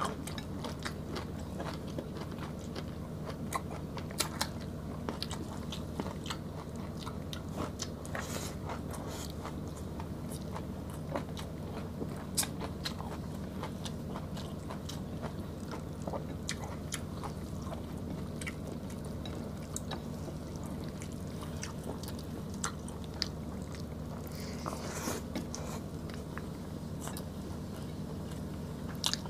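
Close-up eating sounds from two people chewing stewed beef and rice, with scattered small clicks and smacks from mouths and fingers, over a steady low hum.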